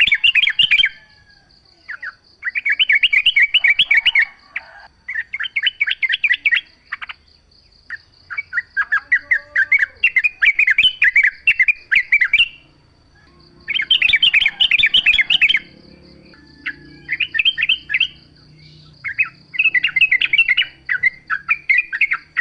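Yellow-vented bulbul (trucukan) singing in repeated bursts of rapid, bubbly chattering notes, each phrase a second or two long with short pauses between, over a faint steady high-pitched hum.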